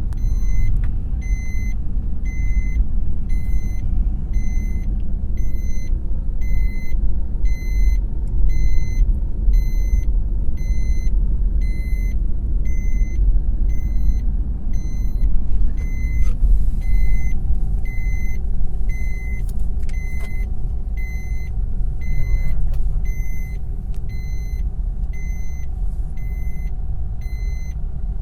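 Low rumble from a moving vehicle, or wind on the microphone, with an electronic beeper sounding steadily at about one and a half beeps a second.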